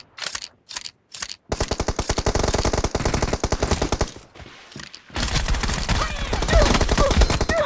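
Video-game automatic gunfire: a few short bursts, then two long bursts of rapid shots with a brief lull between them.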